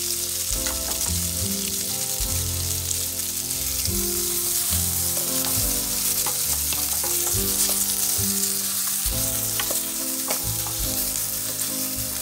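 Diced onion and minced garlic sizzling in hot oil in an enamel skillet, stirred with a wooden spoon that now and then ticks and scrapes against the pan.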